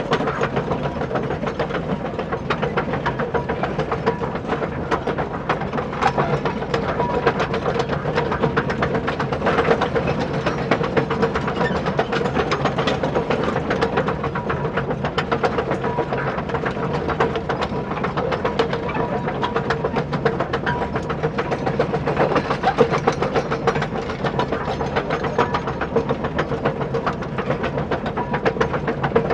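Electric motor and plastic gearbox of an RC toy construction vehicle running, a steady whine over fast, dense clicking.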